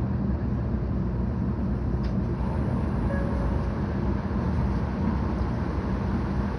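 Steady low rumble of a 700 series Shinkansen running, heard inside the passenger cabin, with a faint click about two seconds in.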